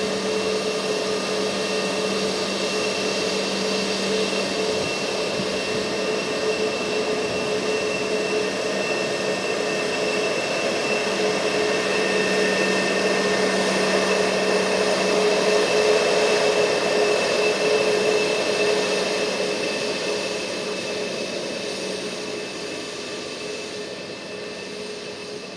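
Airbus A320neo's CFM LEAP-1A turbofan engines at takeoff power: a broad jet rumble with a steady whine over it. It grows louder to a peak about two-thirds of the way through, then fades as the aircraft moves away.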